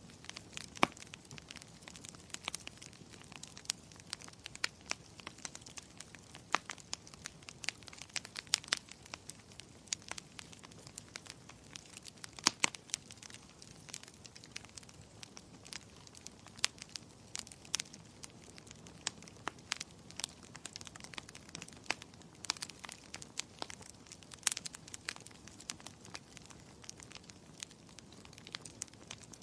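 Wood fire crackling in a fireplace: irregular sharp pops and snaps, several a second, over a soft low rumble of burning.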